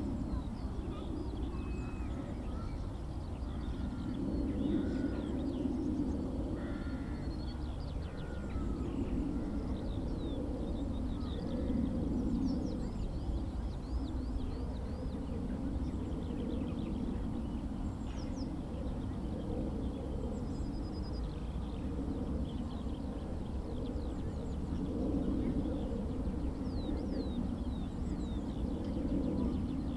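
Distant drone of a small propeller aircraft engine, swelling and fading over the countryside. Scattered high chirps of small birds sound over it, ending in a quick series of falling notes.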